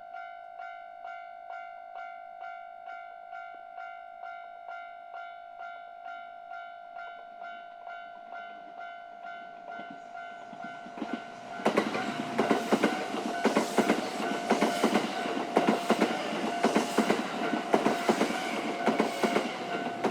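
Japanese level-crossing warning alarm ringing in even pulses about twice a second. About eleven seconds in, a Kintetsu Hinotori limited-express train (80000 series) comes through and passes, a fast run of wheel clacks over the rail joints, while the crossing alarm keeps ringing underneath.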